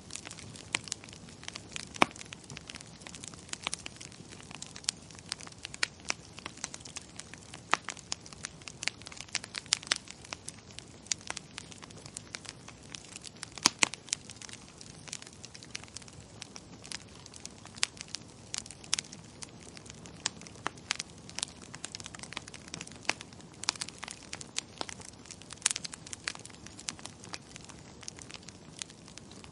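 Wood fire in a fireplace crackling: irregular sharp pops and snaps, a few much louder than the rest, over a soft steady hiss.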